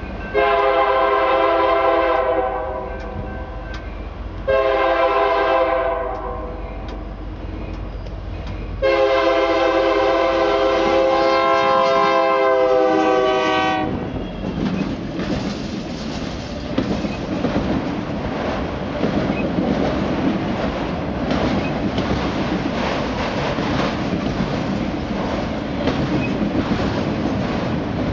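Diesel freight locomotive's air horn sounding three blasts, the last one long, over a low engine rumble as the train approaches. Then the locomotive passes close by and autorack freight cars roll past in a steady rumble, wheels clicking regularly over the rail joints.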